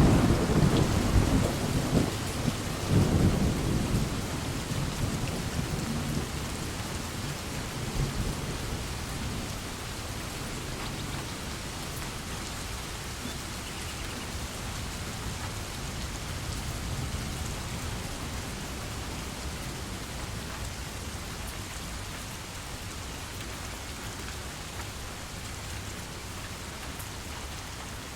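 Steady rain falling, with a roll of thunder in the first few seconds that rumbles twice and fades away, leaving only the even hiss of the rain.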